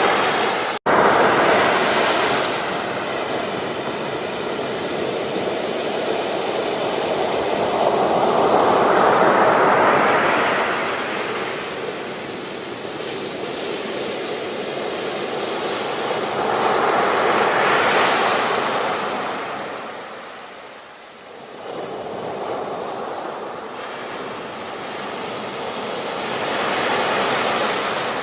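Ocean waves breaking and washing up on a beach. The surf swells and fades in slow surges about every eight to nine seconds, with a momentary break in the sound about a second in.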